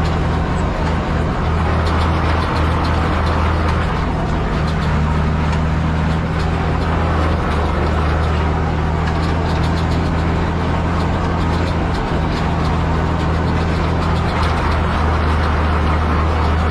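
Same Titan 160 tractor's six-cylinder diesel engine running at a steady speed, with a light clicking rattle over the drone.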